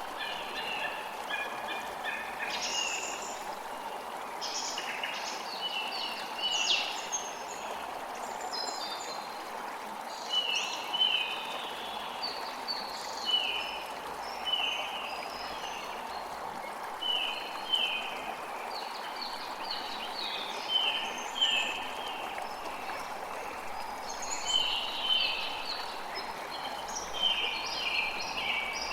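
Small birds chirping in repeated clusters of short, quick, down-slurred notes over a steady rush of water.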